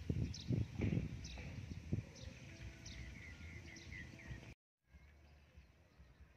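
Birds calling, a short high falling chirp repeated roughly once a second, with a quick run of twittering notes near the middle, over low thuds in about the first second. The sound drops out for a moment and comes back quieter, with only faint bird calls.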